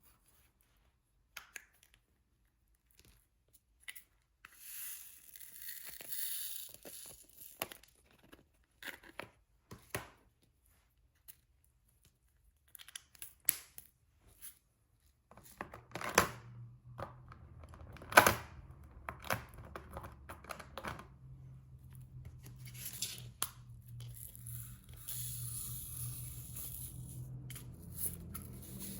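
Diamond painting handling sounds: scattered light clicks and taps of the drill pen and resin drills, with stretches of crinkling, tearing plastic. The loudest is a sharp click about 18 seconds in.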